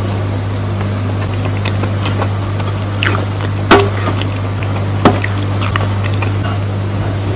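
Close-mic eating sounds: a few sharp clicks and wet mouth smacks, the loudest about three and a half seconds in, over a steady low hum.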